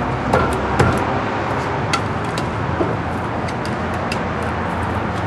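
A steady low hum and noise, with scattered light clicks and taps at irregular intervals.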